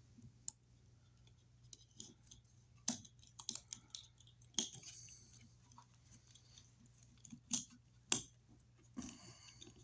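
Faint, scattered clicks and short rustles of plastic wire mold and its cellophane film being handled, with a few sharper clicks among them.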